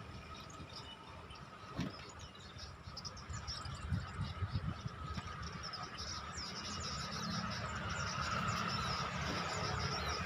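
Small birds chirping in many short, high calls over a steady insect-like drone, with wind rumbling on the microphone. The chirping gets busier and louder about halfway through.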